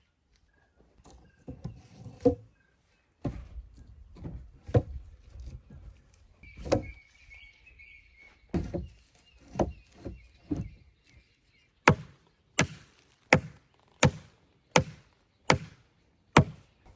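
Wood being chopped with a blade: irregular strikes at first, then a steady run of seven sharp chops about two-thirds of a second apart near the end.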